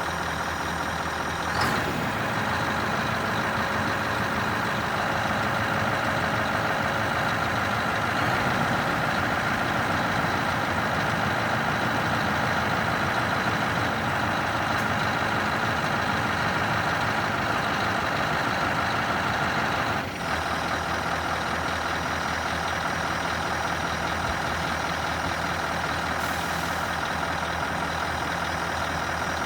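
Scania R560 truck's V8 diesel engine running steadily. A brief sharp sound comes about two seconds in, and the level dips for a moment about two-thirds of the way through.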